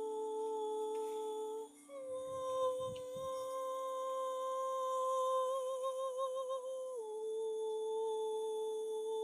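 A person humming long held notes. The voice holds one steady pitch, steps up to a higher note about two seconds in, and drops back to the first note about seven seconds in, wavering into vibrato at the ends of the notes.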